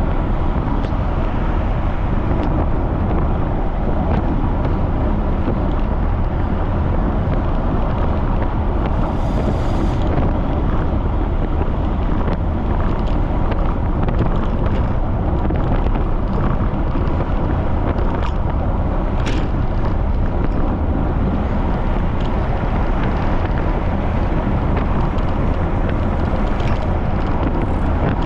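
Wind rushing over the microphone of a camera on a moving bicycle, a loud, steady roar with a few faint ticks.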